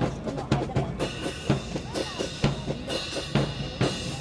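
A steady percussion beat of sharp drum strikes, about two a second, with a deeper bass-drum thump under some of them.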